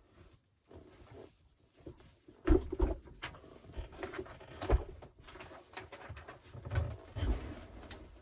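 Irregular knocks and thumps of things being handled and shifted inside a small room, starting after a quiet couple of seconds.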